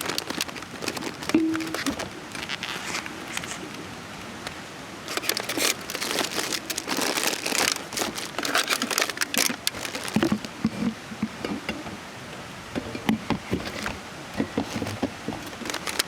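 Irregular rustling and crinkling with many light clicks and knocks, as of camping gear or a bag being handled.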